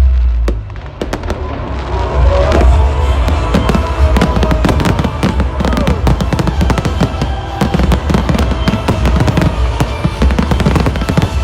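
Fireworks display: a dense run of bangs and crackles over a continuous low rumble, thickening from about two seconds in, with loud music playing over it.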